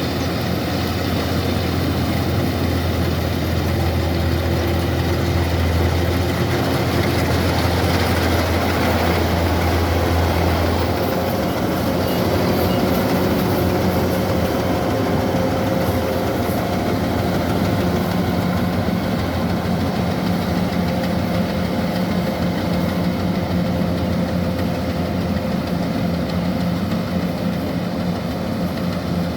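Kubota rice combine harvester's diesel engine running steadily under load, its low hum shifting in pitch about eleven seconds in.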